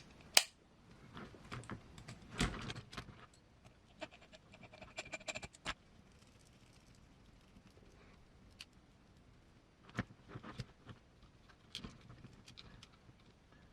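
Small screws, links and hand tools handled at a workbench: scattered light clicks and small metallic taps, with a brief rattle of small parts in the middle.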